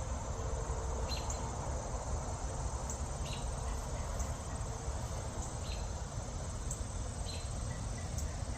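Steady high-pitched insect chorus of crickets or similar insects, with a short chirp repeating about every second and a half and a low rumble underneath.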